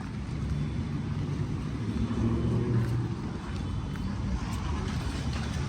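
A motor vehicle engine running steadily at low speed, with road noise.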